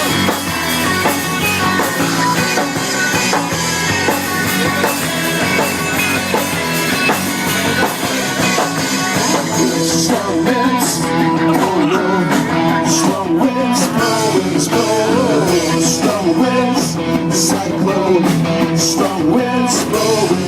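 Live rock band playing: electric guitars, drums and vocals, with cymbal crashes coming through more clearly in the second half.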